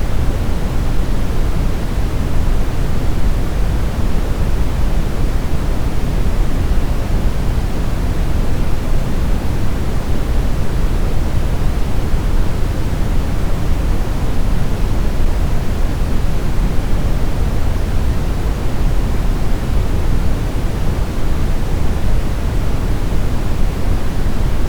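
Steady brown noise, a deep even rumble with most of its weight in the bass, rolling off toward the treble, with no changes or events.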